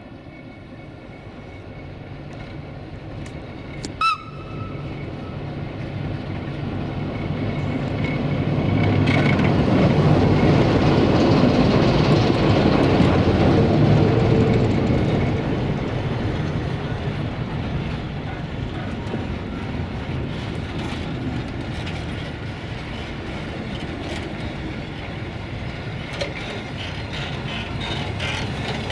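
Romanian 060-DA (LDE2100) Sulzer diesel-electric locomotive approaching and passing close by, its engine drone building to its loudest about ten to fifteen seconds in. Loaded tank wagons then roll past with a rhythmic clickety-clack of wheels over the rail joints. A brief sharp noise sounds about four seconds in.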